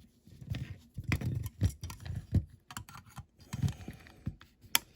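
Irregular small clicks, taps and knocks of a diecast model's plastic interior and door being worked loose from the metal body by hand.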